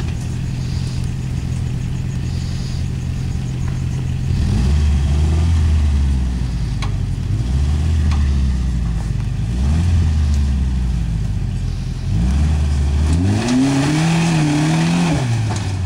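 Toyota 4x4 pickup's engine idling, then revved in about four surges under load as it crawls up rocks, the last one longest and highest near the end.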